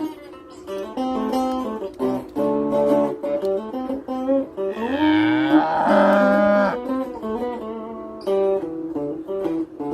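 A cow mooing once, a long call of about two seconds that rises in pitch at the start, over plucked acoustic guitar music.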